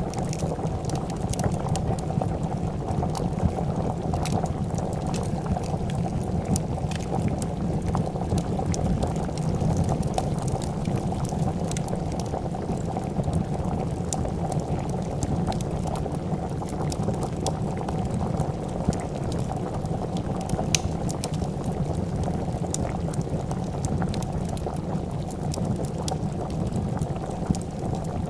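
A pot of soup at a steady rolling boil, bubbling and gurgling continuously, with scattered small crackles from a wood fire.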